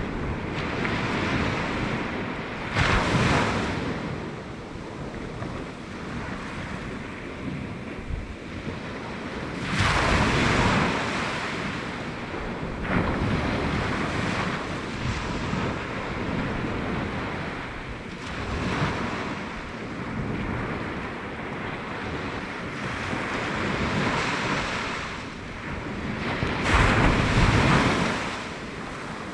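Sea waves breaking on the beach, with swells of louder surf about three, ten and twenty-seven seconds in, and wind buffeting the microphone.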